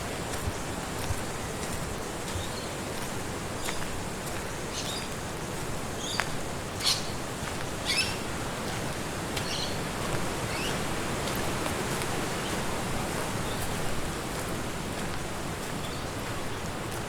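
Wind rushing steadily through trees, with a few short bird chirps scattered through the middle.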